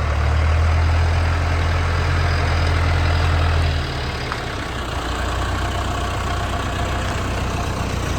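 Heavy engine of farm feed-mixing machinery running steadily with a deep low hum. The hum drops noticeably in level about four seconds in, and the machine keeps running.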